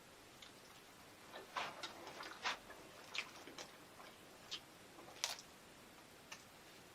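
Faint, irregular clicks and taps, about a dozen, the sharpest about two and a half seconds and five seconds in.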